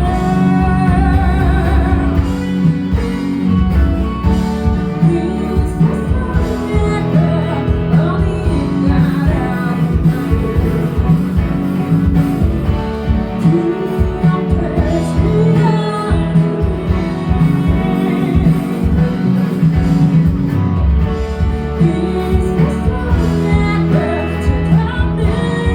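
Live band performing a song: singing over guitar with a strong bass and a steady beat.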